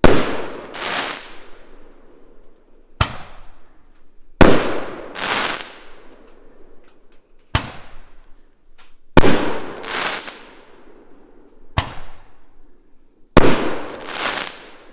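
Oversized Roman candle firing its shots one after another, each a sharp launch report followed by a louder bang as the shot breaks in the air, trailing off in a fading hiss; about four shots go off, a few seconds apart.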